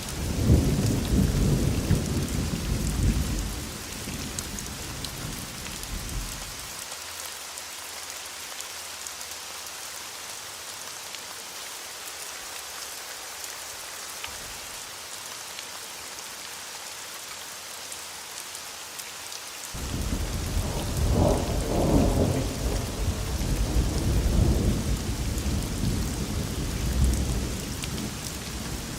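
Steady rain hiss with two long rolls of thunder: a deep rumble in the first several seconds that fades out, then a second rumble that starts suddenly about two-thirds of the way through and rolls on to the end.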